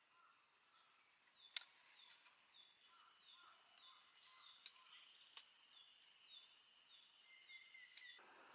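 Faint outdoor ambience with small birds calling: a quick run of short, repeated high chirps, about four a second, over other scattered notes. A few sharp single clicks stand out, the loudest about a second and a half in.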